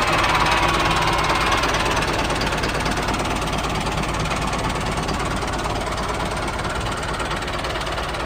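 Tractor engine running steadily with a fast, even knocking beat. A whine over it fades after about two seconds.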